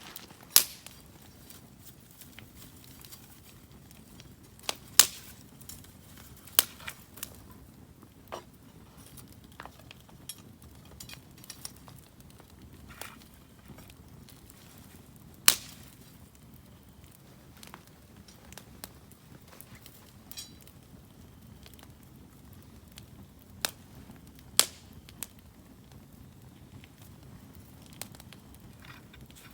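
Wood campfire crackling, with sharp irregular pops and snaps; about half a dozen loud pops stand out several seconds apart among smaller crackles.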